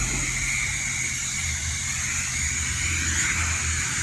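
Self-serve car wash high-pressure wand spraying water onto a car: a steady hiss, with a low rumble beneath.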